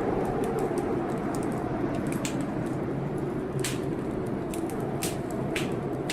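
Fireplace wood fire crackling, with a few sharp, irregular pops, over the steady rushing noise of a storm.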